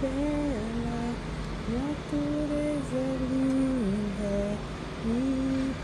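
A woman humming a slow melody, holding each note and sliding between pitches, over a low steady background rumble.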